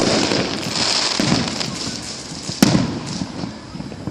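Fireworks going off: a sharp bang at the start and another about two and a half seconds in, with a softer thud between them and a continuous crackling that fades towards the end.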